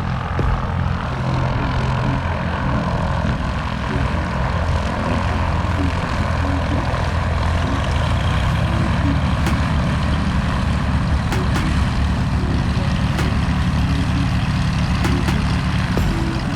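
Twin Continental piston engines and propellers of a Cessna 337 Super Skymaster running steadily.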